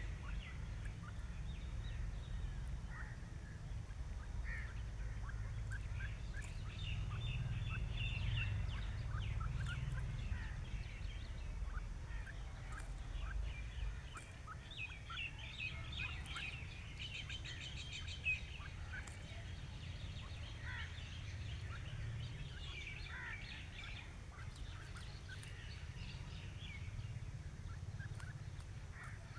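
Grey francolins calling in several bouts of rapid, repeated notes, over a steady low rumble.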